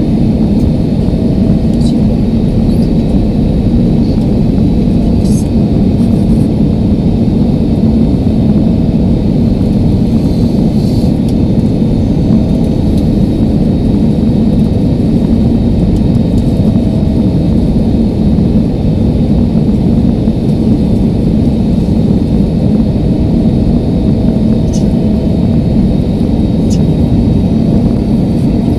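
Airliner cabin noise: a steady low rumble of the jet engines and airflow around the fuselage, unchanging throughout.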